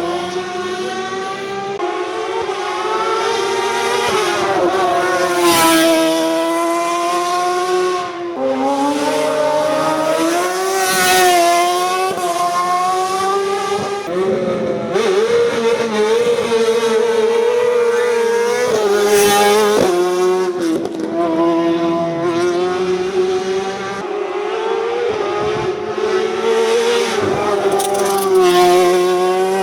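A race car's engine running hard at high revs during a hillclimb run. Its pitch climbs and then drops sharply several times as it changes gear and comes off the throttle for corners.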